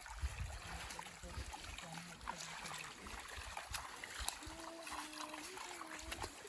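Faint distant voices over a steady hiss, then from about four seconds in a person quietly singing or humming a tune, moving note to note in small steps.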